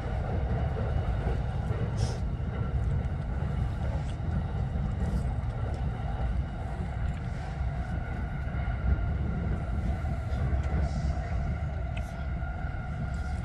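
Steady low rumble with faint steady tones above it and a few light clicks, typical of rail or station surroundings.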